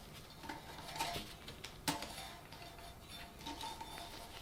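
Light clicks and small metallic clinks and rattles from handling a ceiling fan's wiring and mounting hardware, with one sharper click about two seconds in.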